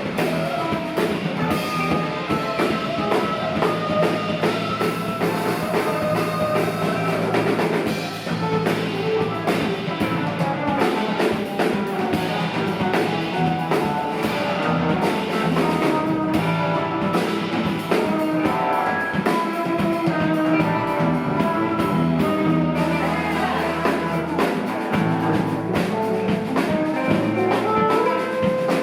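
Live rock band playing an instrumental passage: guitar lines over bass and drum kit, steady throughout.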